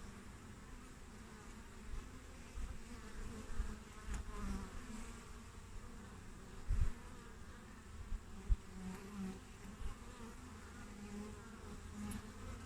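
Honeybees buzzing at a hive entrance, single bees swelling louder and fading as they fly close past. There are a couple of short low thumps about two thirds of the way through.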